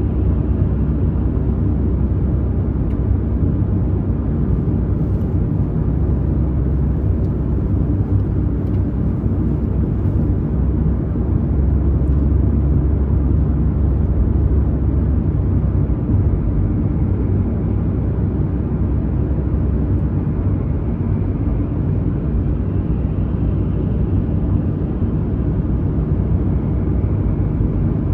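Car driving at steady speed: a continuous, even rumble of engine and tyre noise, deepest in the low end.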